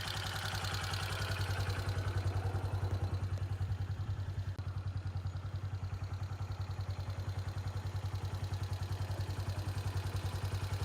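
A 125 cc motorcycle engine running steadily, with a fast, even pulse.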